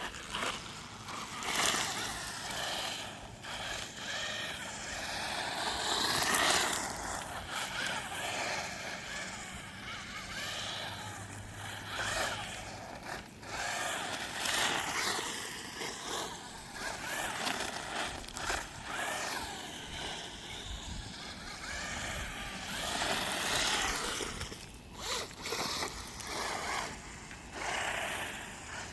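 WLtoys RC car's electric drive motor whining, its pitch climbing and dropping again and again as the throttle is worked, over a steady rush of tyre and ground noise.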